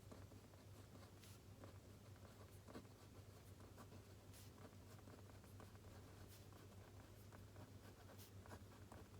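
Faint pen-on-paper writing: light scratching with scattered small clicks and taps, over a low steady hum.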